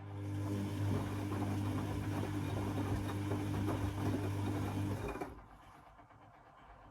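Beko WA 1050 washing machine's motor turning the drum for about five seconds with a steady hum and a rough churning noise, then stopping: the drum's intermittent turn-and-pause rhythm of a wash cycle.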